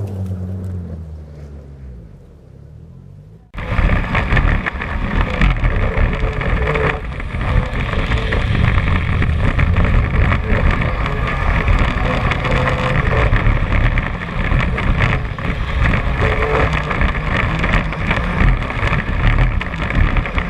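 BMW E36 318ti rally car's engine going away, its pitch falling as it fades. About three and a half seconds in it cuts to loud, steady rushing noise of wind and road with the engine running under it.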